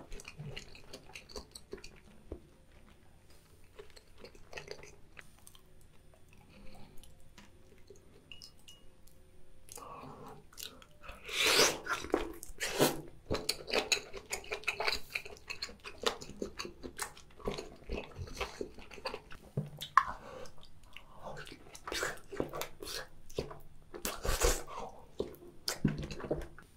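Close-miked chewing of raw salmon sashimi: soft, wet mouth sounds, quieter at first, then louder with sharp wet smacks and clicks from a little before halfway through.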